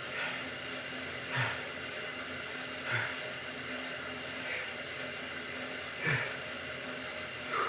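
A man breathing hard while pedalling an exercise bike: short, sharp exhales about every second and a half over a steady whirring hiss.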